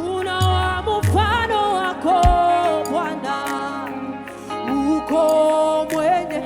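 Live gospel worship music: a band playing with sung, gliding melody lines over it, and a couple of deep bass hits near the start and about two seconds in.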